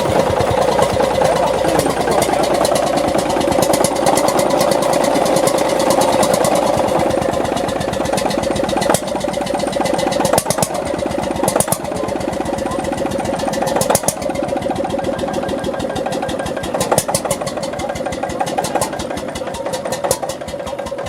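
Hatz H2 single-cylinder, water-cooled stationary diesel engine running with rapid, even firing strokes and occasional louder knocks.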